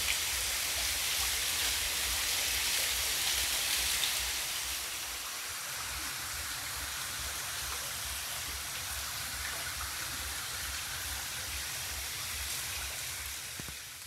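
Waterfall: a steady rush of falling water, a little louder for the first four seconds and fading out at the very end.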